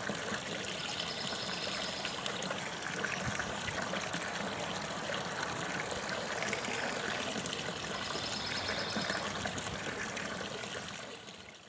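Water trickling steadily in a garden fountain, fading out near the end.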